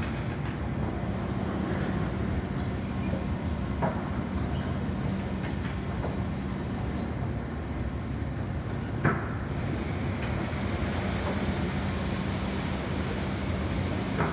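Car wash machinery running: a steady rumble with a low hum, broken by a few short knocks, the loudest about nine seconds in.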